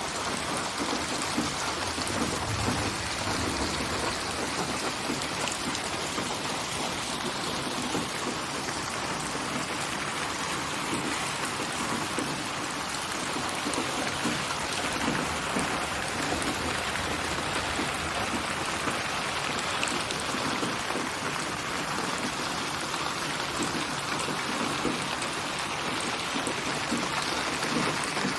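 Steady rain falling on surfaces, a dense, even patter of drops. It is a synthetic rain ambience built from many recorded rain samples and spatialised as 8D surround sound.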